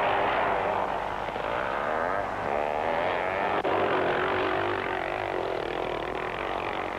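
Scrambles motorcycle engines running hard, their pitch rising and falling as the riders race round the course, with a brief click about three and a half seconds in.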